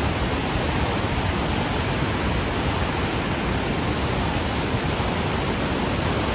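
Steady roar of the Montmorency Falls waterfall: an even rushing noise of falling water with no breaks.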